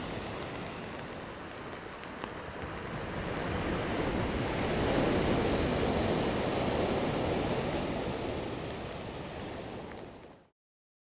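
Sea surf rushing on the shore. A wave swells to its loudest about halfway and eases off, then the sound cuts off abruptly near the end.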